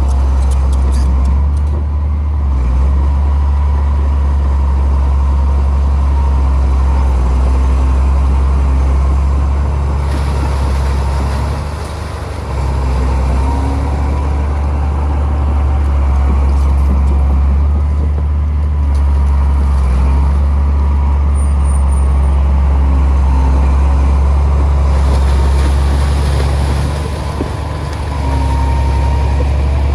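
Heavy diesel earthmoving machinery running, a steady low engine rumble that dips briefly about twelve seconds in and again near the end.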